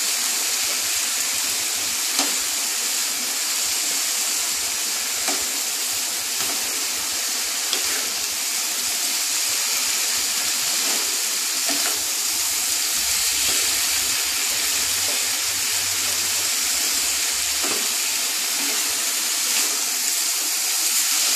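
Grated bottle gourd frying with a steady sizzle in a non-stick pan, its water cooked off, as it is stirred with a wooden spatula that knocks lightly against the pan now and then.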